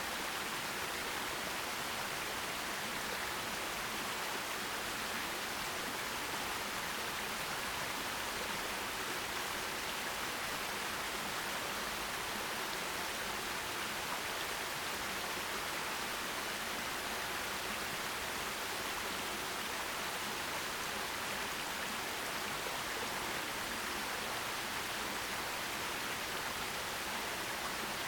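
Forest stream flowing and splashing over rocks in a steady, even rush.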